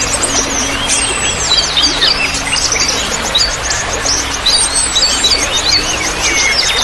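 Many small birds chirping and calling in quick, overlapping twitters over trickling water, with a faint steady low hum underneath. It is a recorded bird-lure track of the kind played to get caged birds to answer.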